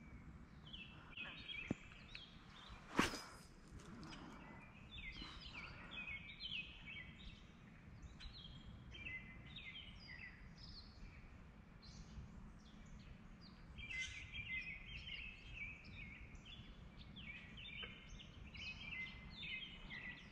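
Small birds chirping and singing over and over in the surrounding trees, over a faint low rumble. There is a sharp knock about three seconds in.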